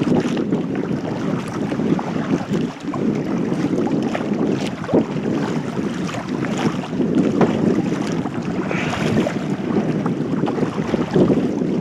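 Wind buffeting the microphone of a head-mounted camcorder on a kayak, with scattered small splashes of water from the kayak paddle.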